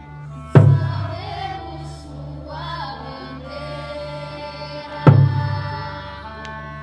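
Group singing over sustained instrumental notes, punctuated by two loud deep drum strikes, one about half a second in and one about five seconds in.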